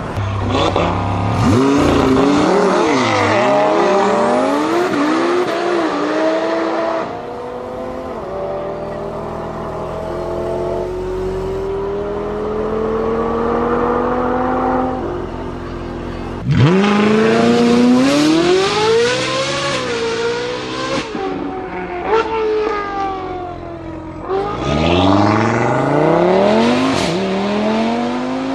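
Supercar engines accelerating hard through the gears. The pitch climbs and then drops back at each upshift, over several separate runs, with a sudden loud start about two thirds of the way in.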